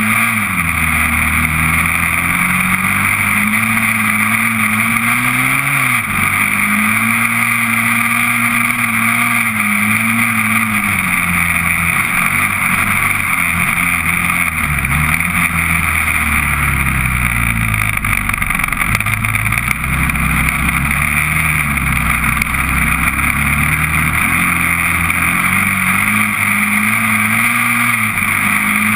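Honda TRX400EX quad's single-cylinder four-stroke engine running under way while being ridden, its pitch rising and falling repeatedly with the throttle, lower for a while in the middle, over a steady hiss.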